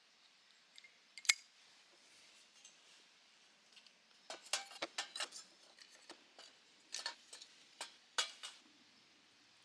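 A series of light, sharp clicks and clinks of small hard objects being handled: a single one about a second in, a quick cluster around the middle, and a few more near the end.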